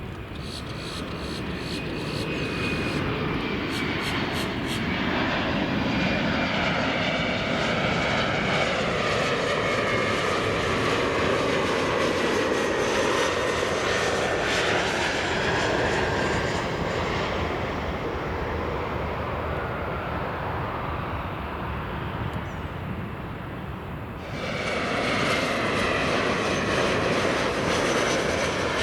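Large jet airliner's engines running as it passes, a steady roar with a high whine that slowly falls in pitch. Near the end the sound cuts abruptly to another jet's roar and whine.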